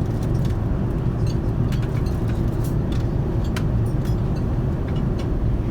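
Steady cabin noise of a Boeing 787-9 in cruise, heard inside the cabin: an even, low rumble of airflow and engines, with a few faint light clicks.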